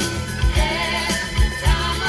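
Pop music played through a car audio system, with a heavy kick drum beat under sustained synth and instrument tones.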